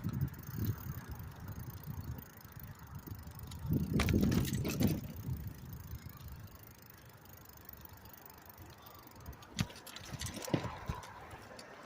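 Bicycle being ridden: an irregular low rumble that swells loudest about four seconds in, with a few sharp clicks and rattles near the end.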